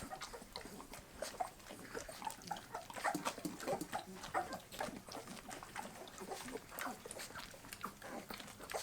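Bull terriers eating wet puppy food, heard as many quick, irregular mouth smacks and licks.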